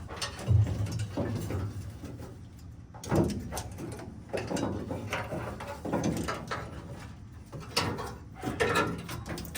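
Irregular clunks, scrapes and rattles of hand work on car parts, in uneven bursts with no steady machine running.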